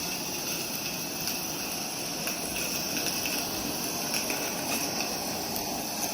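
Steady steam hiss from two live steam Accucraft Shay locomotives running coupled together, with a few faint ticks, over a constant high drone of insects.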